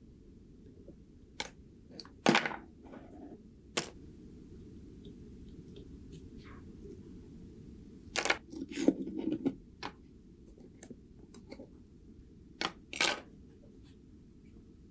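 Scattered sharp clicks and light clatter of small hard parts being handled and set down on a work surface, about a dozen knocks in all, with a busier cluster around eight to nine and a half seconds in.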